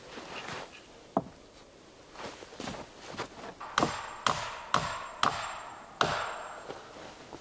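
Wood being chopped: one sharp blow about a second in, then five more sharp strikes about half a second apart.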